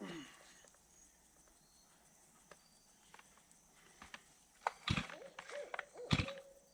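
Mostly quiet, with scattered light knocks. Near the end come two heavy thuds, and an owl starts hooting in a wavering series of calls.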